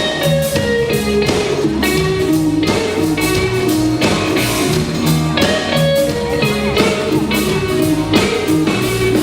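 Live rock band playing an instrumental passage between sung lines, led by electric guitar over bass and drum kit with a steady beat.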